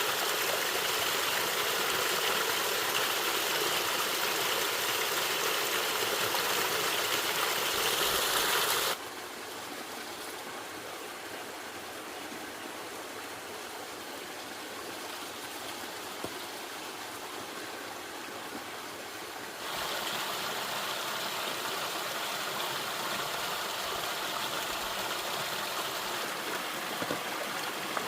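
Steady rushing of running water. It drops suddenly to a quieter, duller rush about nine seconds in and comes back louder at around twenty seconds.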